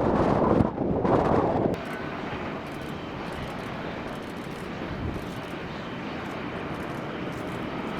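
Loud rushing wind-like noise that cuts off suddenly about two seconds in, followed by the steady rushing sound of a jet airliner's engines.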